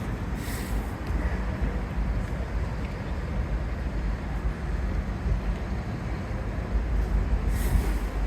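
Steady low city street traffic rumble, with wind on the microphone and two short hisses, one about half a second in and one near the end.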